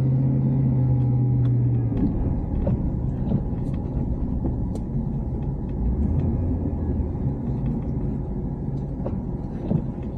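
Pickup truck heard from inside the cab, its engine and road rumble steady. A strong steady drone for the first two seconds gives way to a lower, uneven rumble with a few faint clicks.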